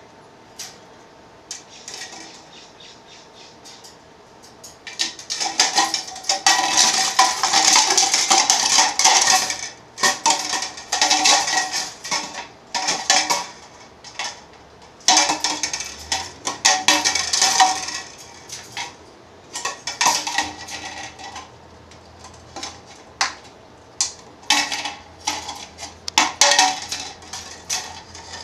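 Agitated pet bird squawking harshly, a long unbroken run a few seconds in, then many short repeated bursts.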